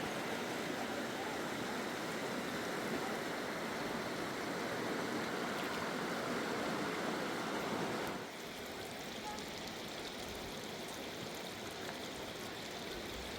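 Steady rush of fast-flowing river water. About eight seconds in it drops abruptly to a quieter, thinner rush.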